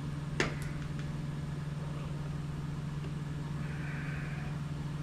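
A steady low mechanical hum with two sharp clicks about half a second in, as of a part or tool touching metal.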